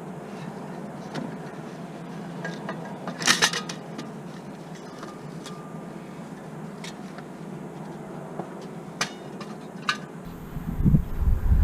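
A few light metallic clinks and taps of hand tools and parts over a steady low hum, the loudest about three seconds in. Near the end, wind buffets the microphone.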